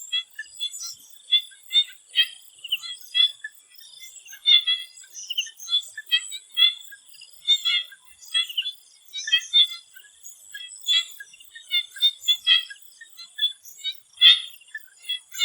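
Chorus of swamp frogs calling in short, irregular croaks several times a second, over a steady high insect drone.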